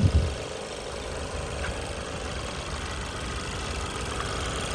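Ford Edge engine idling steadily under the open hood, with a couple of sharp knocks right at the start. The radiator and A/C cooling fans stay silent because both fan fuses are blown.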